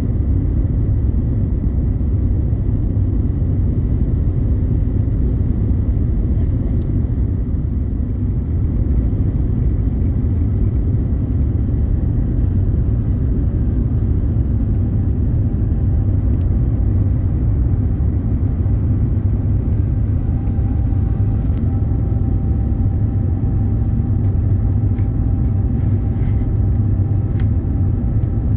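Steady low rumble of engine and airflow noise inside the cabin of an Airbus A350-900 airliner. A faint steady whine joins about two-thirds of the way through.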